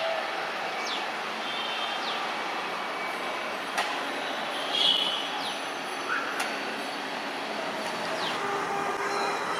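Double-decker express coaches rolling on the rails with a steady rumble as the train runs away. Short high-pitched chirps sound over it, and there are a couple of sharp clicks.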